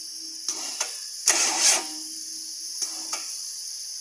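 Six-cylinder generator engine cranked on its starter in three short bursts, the loudest about a second and a half in. It does not catch and run.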